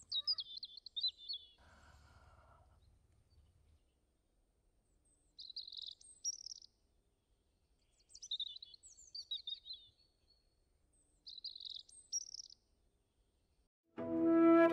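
Small birds chirping in four short bursts of quick, high calls a few seconds apart. Flute music comes in near the end.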